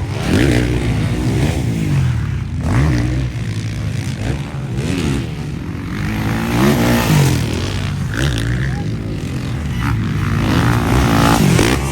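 Motocross bikes racing, their engines revving up and falling back again and again as the riders work through the throttle and gears. Several engines overlap, with the loudest revs about seven seconds in and near the end.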